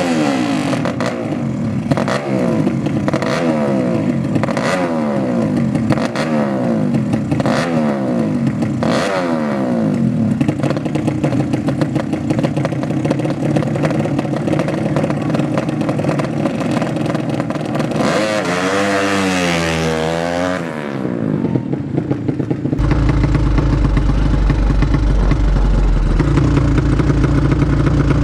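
Drag-racing motorcycle engine pulling hard through the gears, its pitch resetting at each shift about once a second. Later the engine is revved up and down a few times, then gives way to a steady, deeper running sound.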